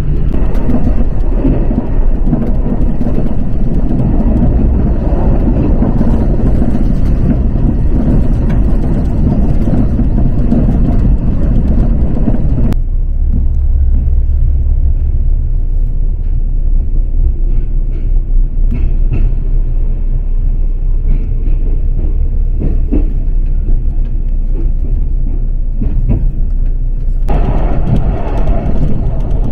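A train running, heard from inside the carriage: a steady rumble with rattle. About thirteen seconds in it cuts abruptly to a duller, deeper rumble, and the fuller running noise returns just as abruptly near the end.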